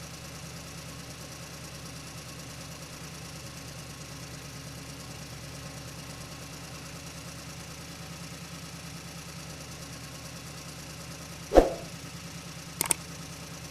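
Steady idling tractor-engine sound, an even rapid chugging, from a toy RC tractor. Near the end comes a single sharp knock, then a couple of faint clicks.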